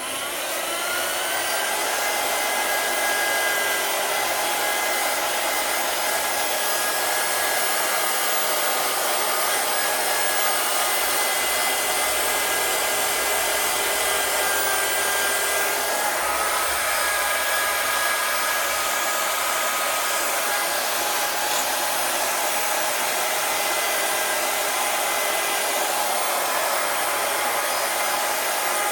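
Electric drill spinning a wire brush against the aluminium engine case of a Porsche 911 SC, polishing it: the motor spins up in the first second or two, then runs with a steady whine and the hiss of the brush.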